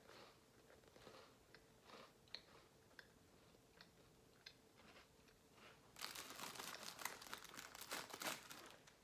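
Faint small mouth clicks, then about six seconds in, two and a half seconds of crunching as a buttery cracker is bitten and chewed close to the microphone.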